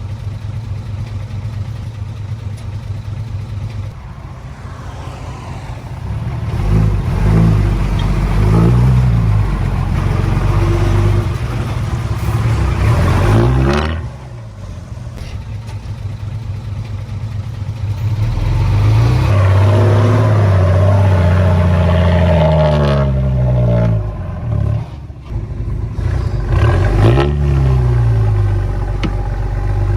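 Heavy earthmoving machine's diesel engine, running steadily at first, then revving up and down repeatedly as it works, its pitch rising and falling. It drops back briefly about halfway through and again shortly before the end.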